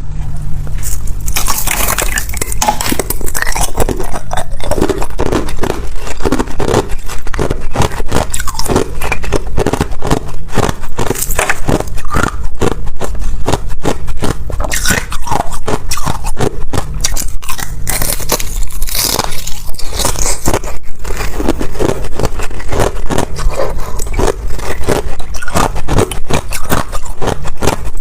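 Close-miked crunching of ice being bitten and chewed: dense, irregular sharp cracks and crackles, one after another.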